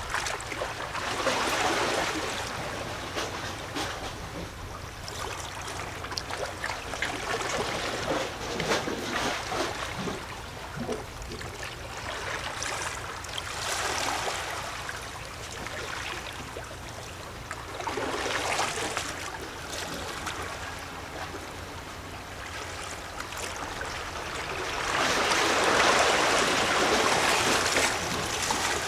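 Small sea waves lapping and gurgling against shore rocks, the wash swelling and fading every few seconds, with the largest surge near the end.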